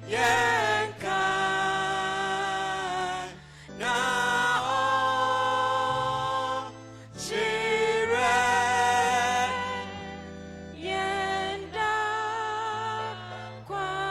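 A congregation singing a hymn in slow phrases of long-held notes, over a steady low accompaniment that moves from note to note.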